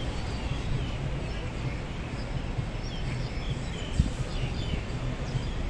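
Small birds chirping in the trees over a steady low city rumble, with a single thump about four seconds in.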